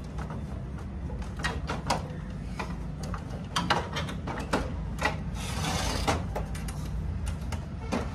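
Irregular clicks and knocks of photocopier parts being handled and worked on, with a brief scraping rush a little past the middle, over a steady low hum.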